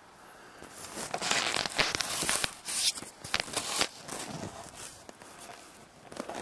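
Footsteps crunching and rustling through undergrowth, an irregular run of crackles and snaps that is loudest in the first half and then tapers off.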